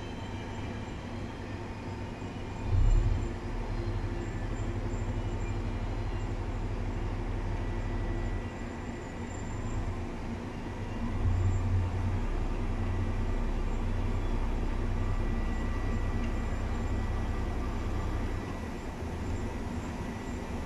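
Passenger coaches rolling slowly through a station behind a diesel shunting locomotive, with a steady low rumble. A brief, loud low thump comes about three seconds in.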